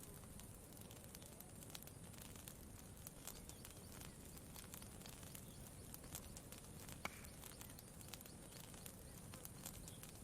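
Campfire crackling softly: scattered small pops and snaps, with one sharper pop about seven seconds in, over a faint steady high hiss and a low steady rumble.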